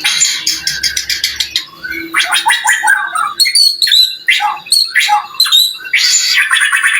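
White-rumped shama (murai batu) singing a loud, varied song of rapid chattering runs of notes, harsh rattling phrases and short whistled notes.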